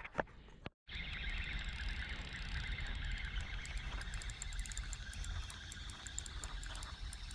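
Outdoor riverside ambience: a low wind rumble on the microphone with a fast, fine ticking high above it. It starts after a brief cut to silence about a second in.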